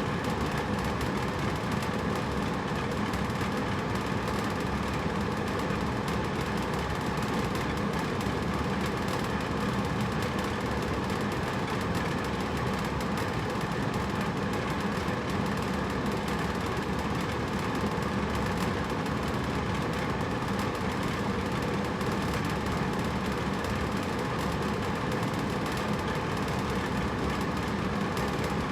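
Hotel room air conditioner running steadily: an even fan and airflow hum with a low drone and no changes.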